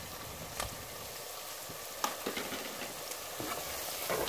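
Mash (white urad) daal sizzling steadily in oil in a cooking pot as chopped chillies, coriander and ginger are tipped in and stirred, with a few light clicks of utensils against the pot.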